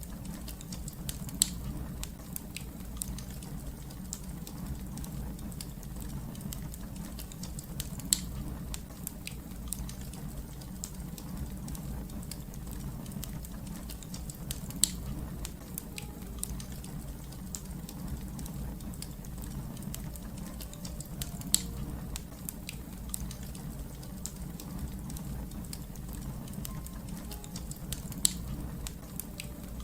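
Wood fire crackling, with a steady low rumble under many small crackles and a louder sharp pop about every seven seconds.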